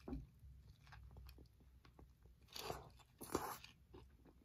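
Faint close-up mouth sounds of a person chewing food, with small wet clicks and smacks. Two short, louder bursts of noise come about a second apart in the middle.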